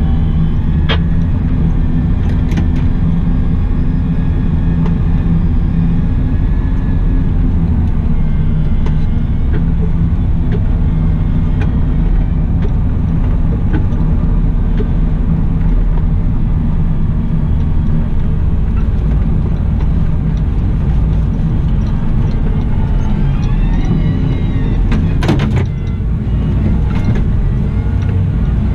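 Cat 972M XE wheel loader's diesel engine running steadily at work. A few short knocks, and a whine that rises and falls about five seconds before the end.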